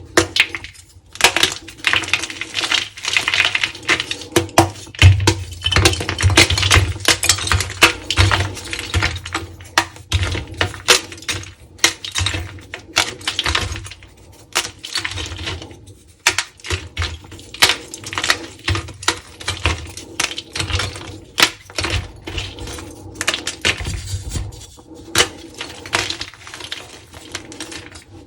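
Dyed blocks of gym chalk being crushed and crumbled, a dense run of sharp crunches and crackles coming in irregular clusters with brief pauses.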